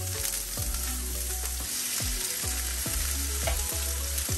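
Onions and trout sizzling in butter on a hot electric flat-top griddle, a steady frying hiss as the fish are laid on.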